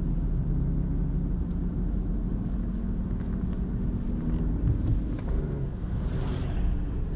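BMW E46 318i's N42B20 2.0-litre four-cylinder engine running steadily with a low rumble. It is making a strange noise that the owner cannot identify. There is a brief higher rush of noise about six seconds in.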